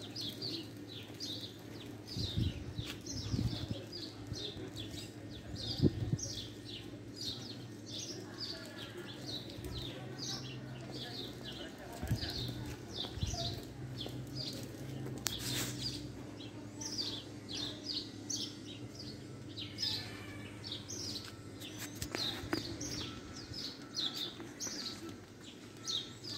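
Small birds chirping: a quick, steady run of short high notes sweeping downward, several a second. Beneath them runs a low steady hum, with a few low thumps, the loudest about six seconds in.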